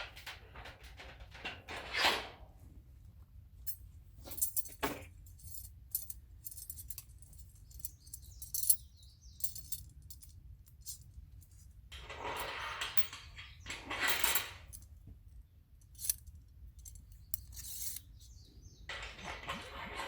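Camping gear being handled: light metal clinks and clicks, with stretches of rustling about twelve, fourteen and nineteen seconds in.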